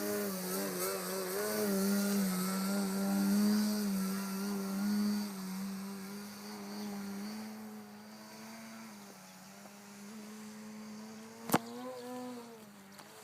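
Electric motor and propeller of an RC model airplane running, a steady drone whose pitch wavers slightly; it is louder in the first half and fades after about seven seconds. A single sharp click comes near the end.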